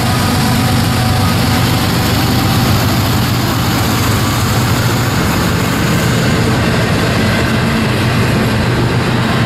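A CSX diesel freight train passing close by, its locomotive engine giving way to double-stack container cars rolling past. A loud, steady rumble with a low engine drone.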